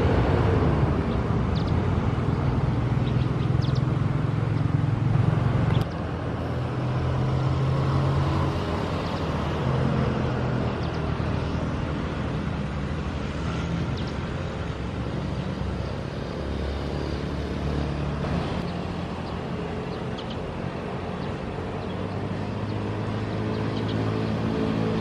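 Airbus A330neo jet airliner rumbling steadily around the landing. Its level drops abruptly about six seconds in, then stays lower.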